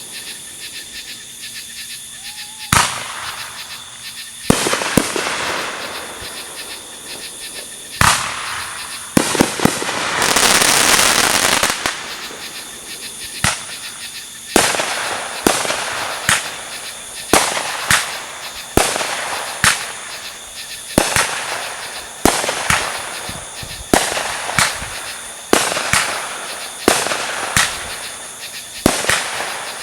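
Fireworks going off: scattered loud bangs, each with an echoing tail, then two seconds of loud hissing crackle just past the middle. After that comes a steady run of bangs, about one a second.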